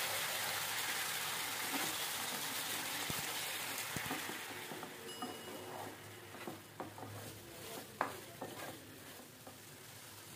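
Chicken pieces sizzling in oil and sauce in a nonstick frying pan while being stirred with a wooden spatula. The sizzle fades after about five seconds, leaving scattered knocks and scrapes of the spatula against the pan, the sharpest about eight seconds in.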